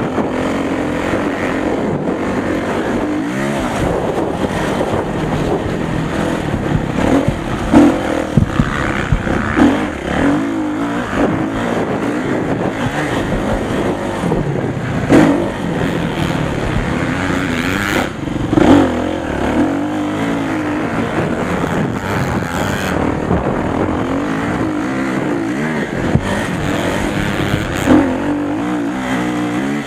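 Motocross motorcycle engines revving up and falling off again and again as the bikes ride the course, with several brief louder surges.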